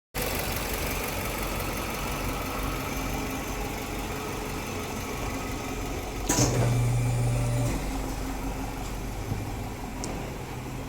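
Toyota Town Ace Van's 1.5-litre naturally aspirated engine idling through an aftermarket loud-version exhaust with a metal-catalyst header and a centre single muffler; about six seconds in, a click and a brief louder stretch.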